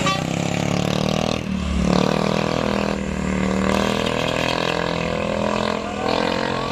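Diesel truck engine running under load, a steady drone with a couple of brief dips in level.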